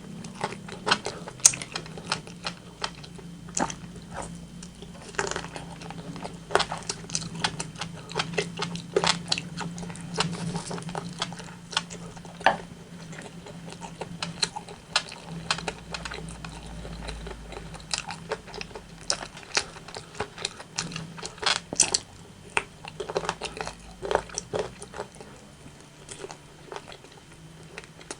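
Close-miked chewing and biting of rotisserie chicken: a continuous run of sharp, wet mouth clicks and crunches, with a faint low hum underneath.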